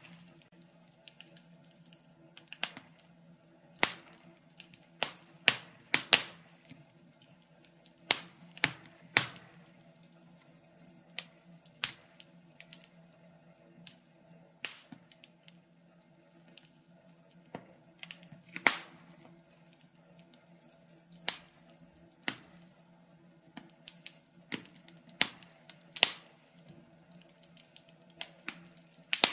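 Wood fire in a fireplace crackling: irregular sharp pops and snaps, a few much louder than the rest, over a faint steady hum.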